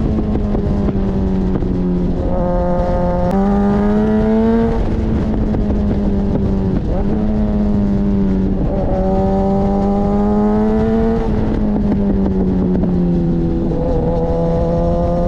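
Suzuki GSX-S1000's inline-four engine running through an Akrapovic exhaust. Its pitch climbs and falls slowly several times, with sudden shifts in pitch along the way.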